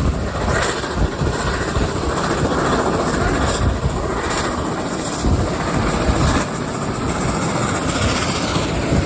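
Steam-hauled passenger train running along the track, heard from onboard a carriage behind locomotive 3801, with steady rail and running noise and irregular knocks.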